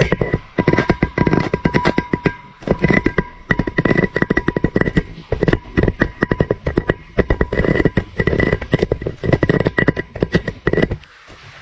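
Camera knocking and scraping against the inside of a narrow pipe as it is lowered on a string: a rapid, irregular clatter over a steady ringing tone, which stops suddenly near the end.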